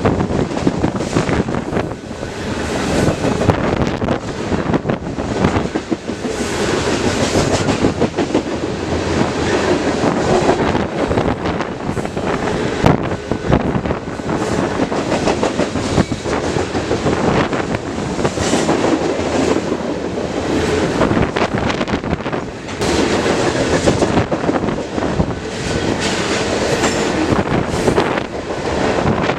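A BNSF freight train's cars rolling past close by, a continuous rumble with a steady run of wheel clicks and clatter.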